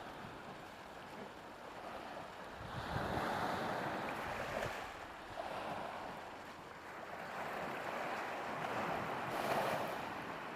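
Sea waves washing onto a shore in several surges, swelling and falling back, with wind noise.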